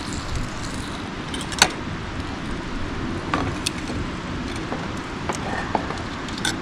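Campfire crackling: a steady hiss with a handful of sharp, separate pops, the loudest about one and a half seconds in.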